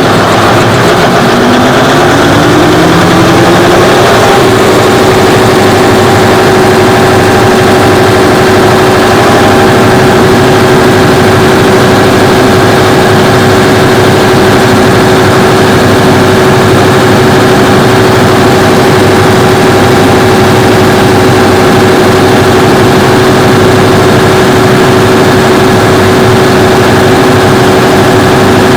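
Cummins diesel generator set's engine, just started, rising in pitch for the first four seconds or so as it comes up to speed, then running loud and steady at a constant speed.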